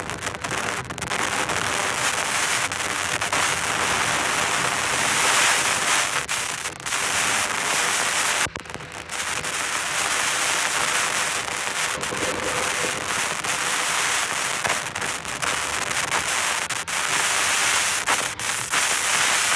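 Dense, crackling spatter of water striking a car's body and windshield as it drives through rain and flooded streets, with a low, steady vehicle sound underneath.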